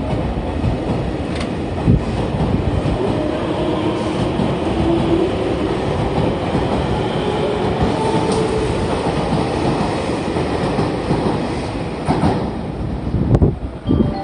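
283 series "Ocean Arrow" limited express train running past, its wheels rumbling and clattering over the rail joints, with a few louder knocks near the end.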